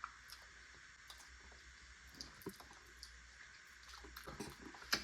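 Faint wet mouth clicks and smacks of a person chewing food close to the microphone: sparse at first, busier toward the end, with one sharper click just before the end.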